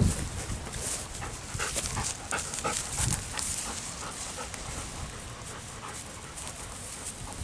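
Golden retriever panting in quick, even breaths, with faint wind rumble on the microphone.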